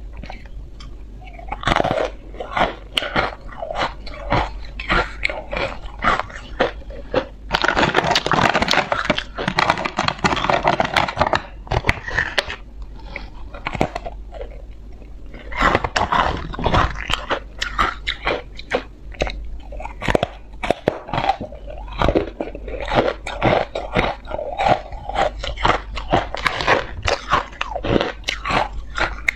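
Ice being bitten and chewed close to the microphone: a steady run of sharp crunches, with denser, louder bouts of grinding about eight seconds in and again around sixteen seconds.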